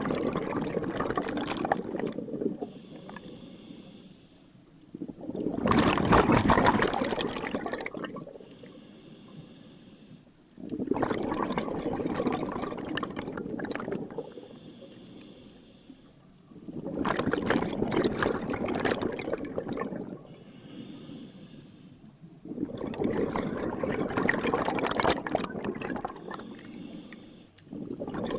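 Scuba diver breathing through a regulator underwater: five long exhalations of rushing, bubbling noise, about every five and a half seconds, with a fainter high hiss in the pauses between them.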